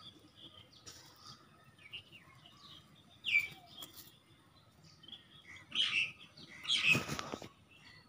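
A few short, high bird chirps spaced out across a quiet background, with a brief rustle about seven seconds in.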